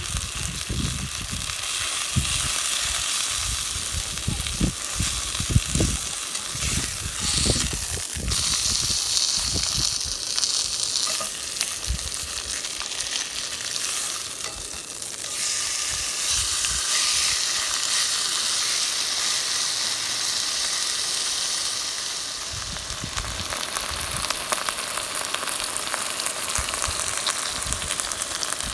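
Food sizzling and crackling in a frying pan, with scattered light knocks of a utensil being handled or stirred.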